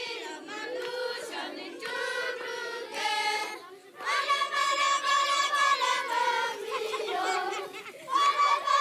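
A group of children singing together in chorus, holding long notes, with a brief break about four seconds in.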